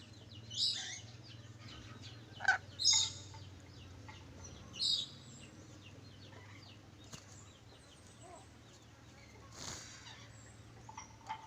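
Nuri dora parrot giving short, harsh screeching calls: several in the first five seconds, then one more near the end, over a faint steady low hum.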